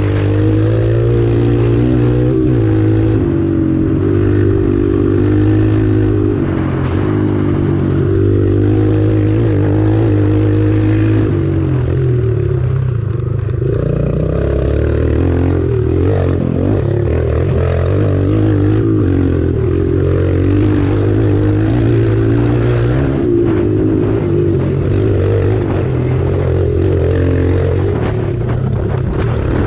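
Kawasaki KLX140 pit bike's small single-cylinder four-stroke engine running hard under way, the revs rising and falling with a brief drop about halfway through.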